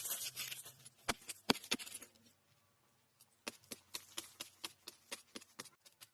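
Rustling handling noise with three sharp snaps about a second in, then after a short pause a quick run of sharp taps and clicks, from hands working with natural building material.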